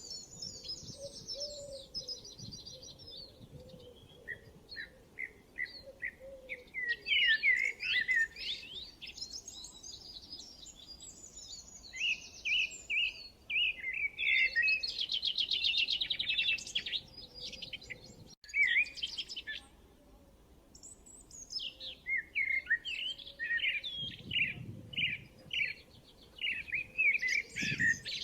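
Songbirds chirping and trilling, with several overlapping calls: a run of short repeated notes, then a long fast trill midway through.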